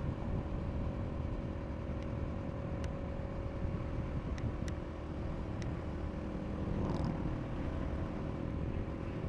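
KTM RC390 single-cylinder motorcycle engine running at a steady, even speed with no revving, over a low rumble.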